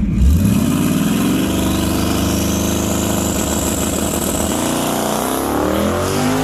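Engine accelerating at full throttle on a drag-strip run. Its pitch climbs over the first second or so, holds high, then climbs again about five seconds in.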